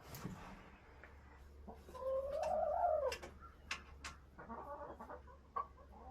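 Chickens clucking, with one drawn-out, arching call about two seconds in that is the loudest sound, followed by a few sharp clicks and shorter calls. A knock sounds at the very start.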